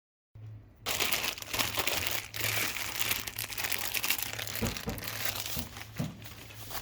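Plastic packaging crinkling and rustling as it is handled and opened, starting about a second in, busy and irregular, and easing off near the end.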